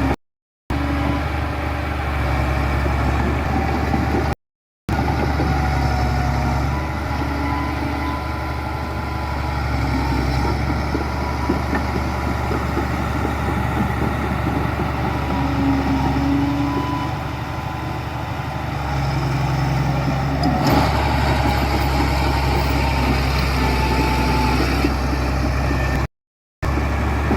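Diesel engines of heavy earthmoving machinery, bulldozers and dump trucks, running steadily, the engine note swelling and easing. A single sharp knock comes about two-thirds of the way through. The sound drops out to silence briefly a few times.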